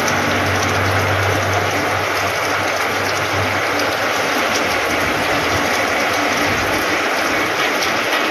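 Heavy rain falling steadily on wet ground and a corrugated metal shed roof, a dense, even downpour. A low hum sits under it and fades out about halfway through.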